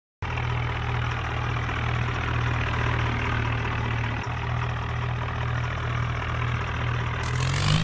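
Tractor's diesel engine idling steadily, then beginning to rev up near the end.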